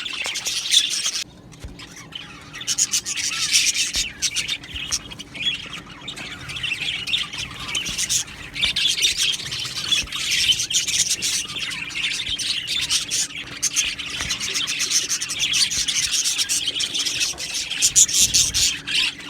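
A flock of budgerigars (budgies) chattering, chirping and squawking over one another without pause, with a short lull about a second in.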